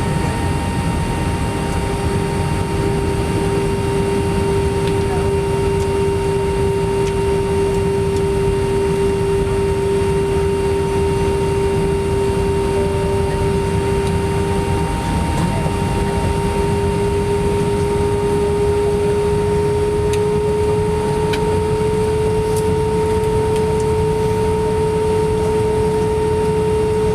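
Steady cabin noise inside an Airbus A319 airliner: a low rumble with a whine that holds one pitch and edges slowly upward over the second half.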